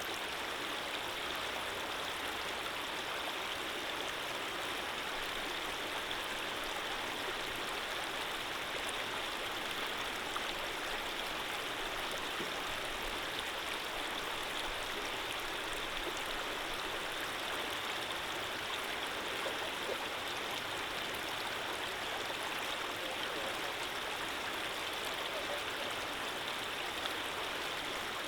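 Running water of a gentle stream flowing steadily: an even, unbroken rush with little deep rumble.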